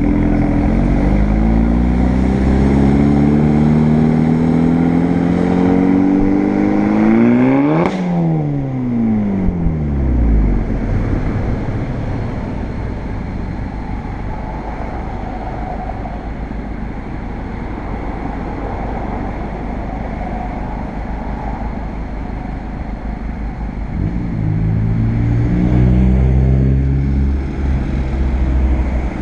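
Volkswagen GTI's turbocharged four-cylinder with an APR turbo-back exhaust and K04 turbo, accelerating hard: the exhaust note climbs steeply in pitch, then drops away about eight seconds in and settles into a steady rush. Near the end the engine pulls again with a rising note.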